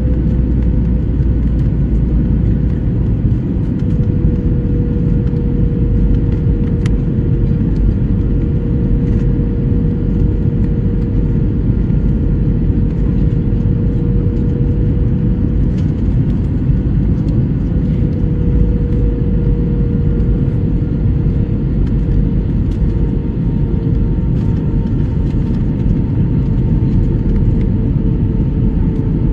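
Airliner cabin noise: a steady drone of engines and rushing air, with a constant hum-like tone running through it.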